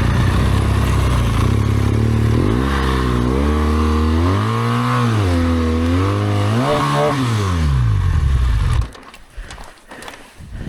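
BMW R1200GS Adventure's boxer twin engine running, then revving up and down several times in pitch. It cuts off suddenly about nine seconds in, leaving faint scattered clicks and crunches.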